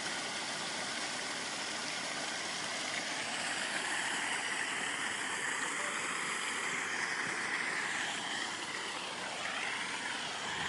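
Steady outdoor background noise: an even hiss-like haze with no distinct event.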